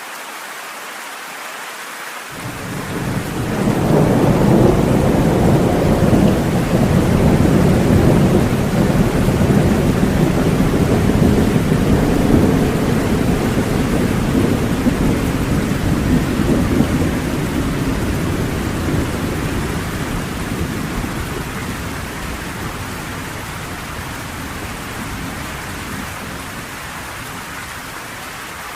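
Steady rain with a long roll of thunder: the rumble starts about two seconds in, swells quickly and rolls on for about twenty seconds, slowly fading back to the rain.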